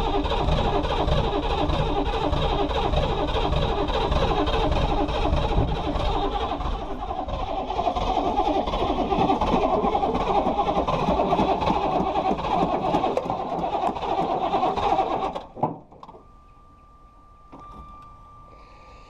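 Truck's 6.2-litre diesel V8 running cold and rough with a rhythmic clatter and exhaust leaks, then cutting off suddenly about fifteen seconds in. After that a faint steady tone remains.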